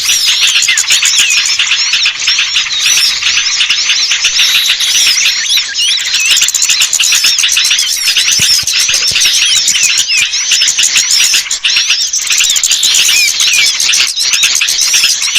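Dense, continuous twittering of many small birds, a rapid jumble of short high chirps and quick up-and-down notes. It is a bird-lure (pikat) call, played to draw small birds down.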